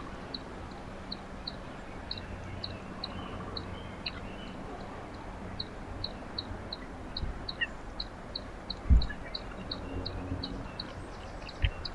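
A small bird giving short, high chip notes over and over, about three a second, over a faint low hum. A dull low thump comes about nine seconds in.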